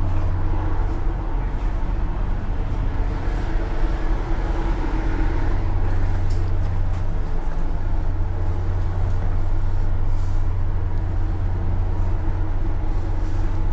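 Tanker's engine running under way: a steady, deep mechanical hum that holds an even level throughout.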